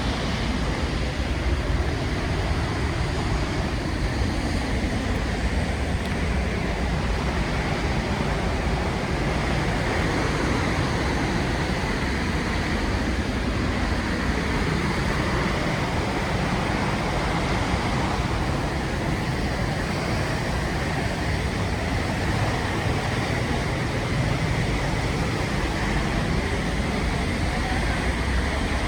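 Rhine Falls roaring: the steady, unbroken roar of a large waterfall's falling water, heavy in the low end.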